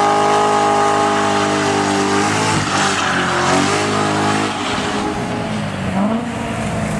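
Corvette V8 held at high revs in a smoky burnout, a steady, loud engine note over the hiss of spinning rear tyres. About halfway through, the revs waver and drop, and the sound gets quieter, with a brief rev rise near the end.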